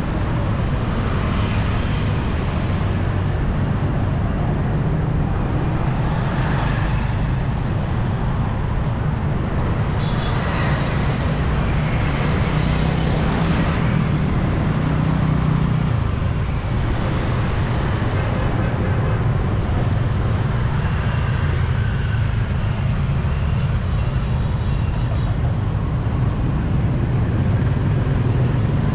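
City street traffic: a steady stream of motor vehicles passing close by, several swelling louder as they go past.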